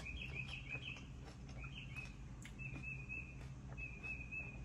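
A bird chirping in short repeated runs of quick high notes, with brief pauses between runs, over a steady low hum.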